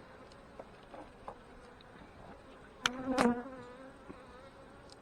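Honey bees buzzing around an open hive, with scattered light clicks. About three seconds in, a bee's buzz swells loud and close for about half a second, with two sharp taps, then fades away.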